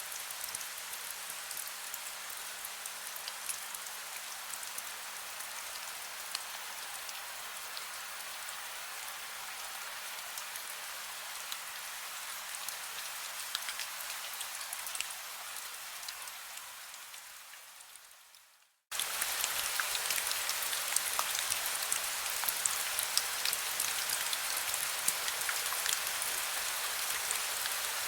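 Heavy rain falling steadily, with fine drop patter through it. About two-thirds of the way in it fades out to a moment of silence, then cuts straight back in, a little louder.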